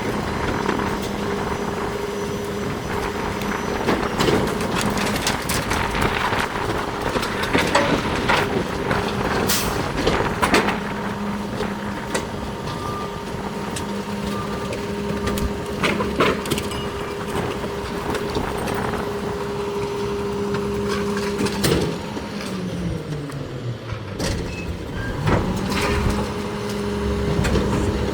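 McNeilus rear-loader garbage truck running its packer: the engine held at a steady raised speed to drive the hydraulics while bulky items crack and crunch in the hopper with repeated sharp snaps and knocks. Near the end the engine speed falls away and then climbs back up.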